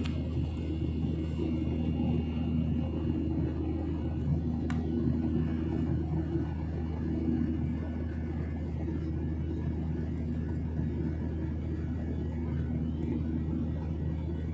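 Steady low drone of an airliner's engines and airflow heard inside the passenger cabin, with a few steady low tones under an even rush and one faint click about a third of the way through.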